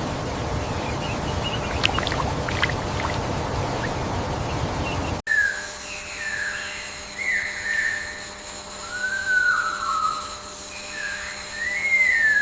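Steady rushing water with a few faint bird chirps, then after a sudden cut a bird singing a series of slurred whistles that rise and fall, one or two every second.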